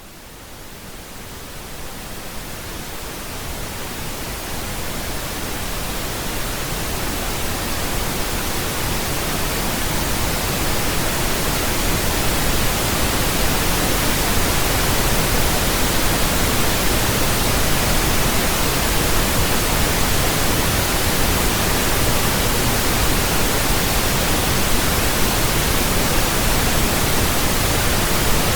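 Pink noise: a steady, even hiss with a deeper rumble beneath it, fading in gradually over the first several seconds and then holding level.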